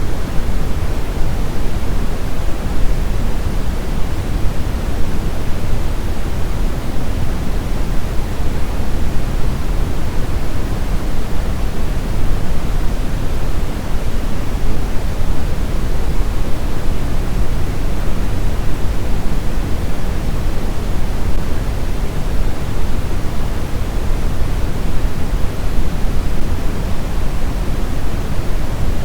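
Steady brown noise: a continuous, even synthetic hiss weighted heavily toward the deep low end, with no events or changes.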